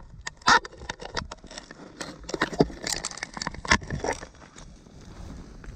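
Footsteps crunching and scraping through snow and ice: a string of irregular sharp crackles and crunches, fading off near the end.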